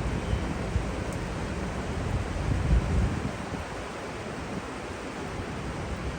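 Steady hiss of rain with wind buffeting the microphone in uneven low rumbles, strongest about three seconds in.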